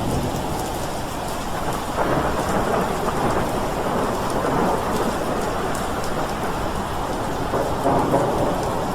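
Thunderstorm: steady rain with rumbling thunder, which swells about two seconds in and again near the end.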